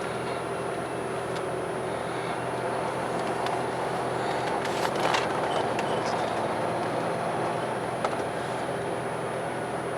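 Steady engine hum with a constant rumbling noise, briefly swelling louder about five seconds in.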